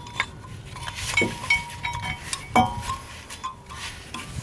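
Metal brake parts and tools clinking and clicking against one another as the brake is being reassembled, with short ringing tones after some strikes and the loudest knock about two and a half seconds in.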